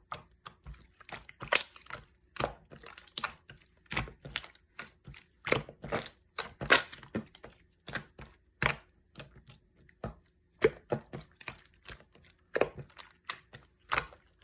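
Blue slime being squeezed and kneaded by hand, giving an irregular run of sharp clicks and little pops, several a second.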